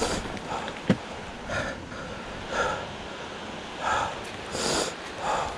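A person breathing hard, with a heavy breath roughly every second, as when out of breath after exertion.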